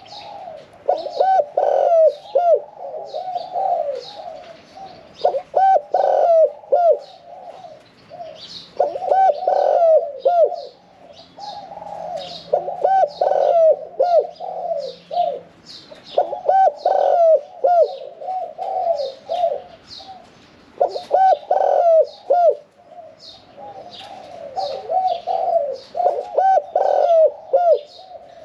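Caged spotted dove cooing in a medium-pitched voice, repeating its song phrase, the one-kuk thrown style, every few seconds. Small birds chirp in high short notes over it.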